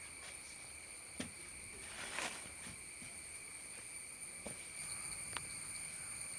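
Steady high-pitched drone of a cicada chorus, swelling slightly near the end, with a few faint knocks and a brief rustle of wooden sticks being handled.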